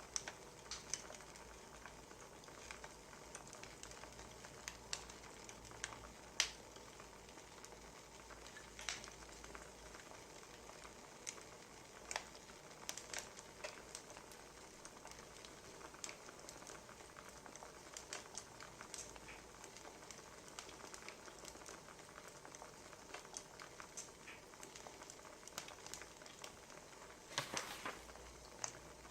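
Wood fire crackling: soft, steady hiss with irregular sharp pops and snaps, a quick flurry of them near the end.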